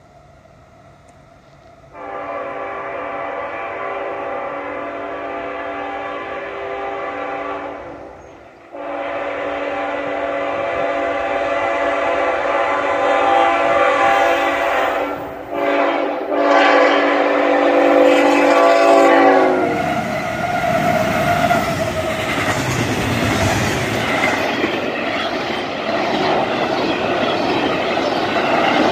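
A fast Norfolk Southern intermodal freight led by three GE ET44AC locomotives sounds its multi-chime air horn in three blasts: two long ones, then a third that ends as the locomotives pass about 20 seconds in. The locomotives and loaded intermodal cars then go by at speed, the wheels clattering over the rails.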